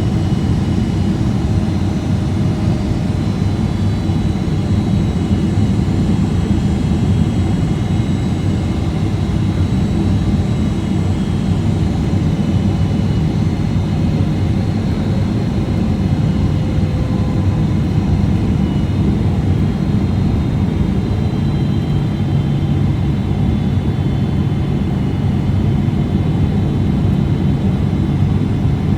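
Boeing 777-300ER cabin noise during the approach: a steady, loud rumble of airflow and its GE90 jet engines. Faint engine tones drift slowly in pitch over it, and a low hum grows stronger about two-thirds of the way through.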